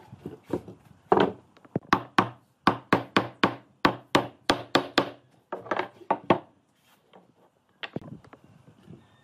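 Hammering on wood: a quick run of sharp knocks, about three or four a second for some five seconds, then a pause and one last knock near the end.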